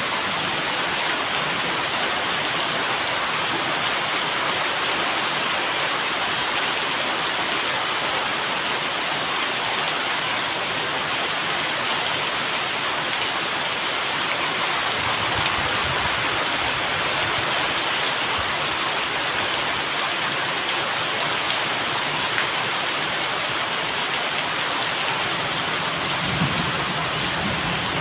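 Steady heavy rain, with low rumbles of thunder about halfway through and again near the end.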